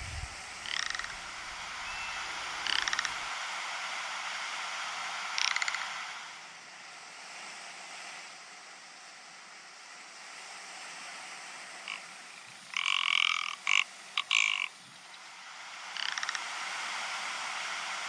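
Ptarmigan giving short, dry, rattling croak calls every few seconds, with a louder run of several calls about thirteen seconds in.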